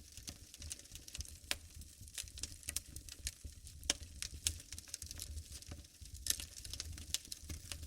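Wood fire burning in a fireplace, crackling with many irregular sharp pops and snaps over a low rumble of the flames.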